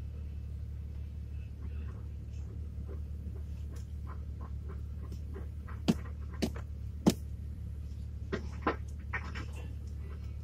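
Steady low hum of the Jeep Cherokee XJ's engine idling, heard through the hood, with a few sharp knocks between about six and nine seconds in, the loudest three close together around six to seven seconds.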